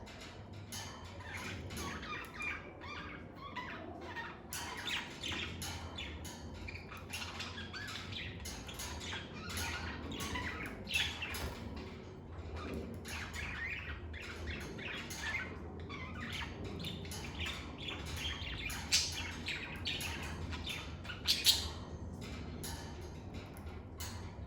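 Lovebirds chirping and twittering in a dense, continuous chatter, with a few louder sharp calls near the end, over a steady low hum.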